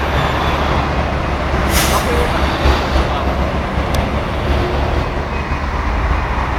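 Motorway traffic and heavy vehicles running: a steady low rumble, with a short hiss about two seconds in.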